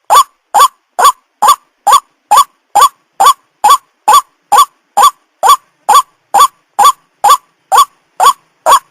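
White-breasted waterhen calling, one short rising note repeated evenly about two times a second, each call alike.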